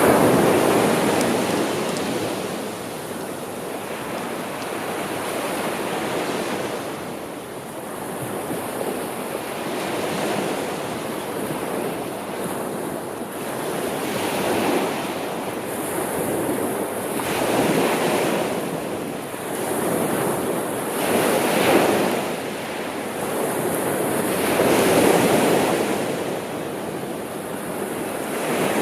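Sea waves washing in on a shore, each surge rising and drawing back irregularly every two to five seconds over a steady hiss of surf.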